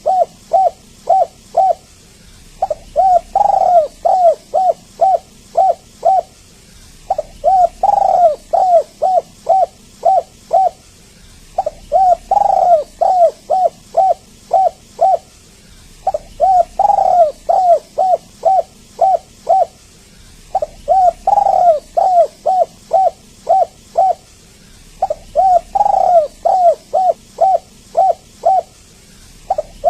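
Spotted dove (tekukur) cooing in repeated phrases, one every four to five seconds. Each phrase opens with a stronger, falling coo and runs on into a quick string of about six to eight shorter coos.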